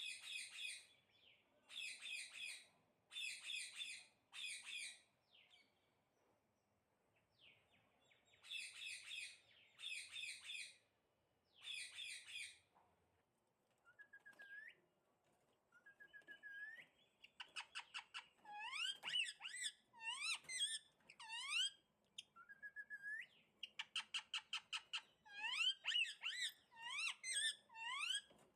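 Parrots calling: bursts of harsh, buzzy calls for the first dozen seconds, then after a short pause fast runs of short rising chirps.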